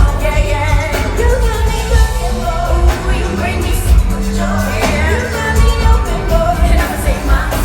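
Live R&B concert music over the PA: a heavy bass-driven backing track with a singer's wordless, bending vocal lines over it.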